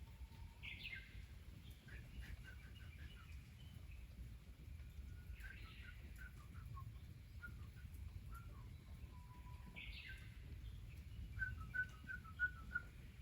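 A songbird singing the same short phrase three times, roughly every five seconds: a higher opening note followed by a quick run of short chips. A faint low rumble runs underneath.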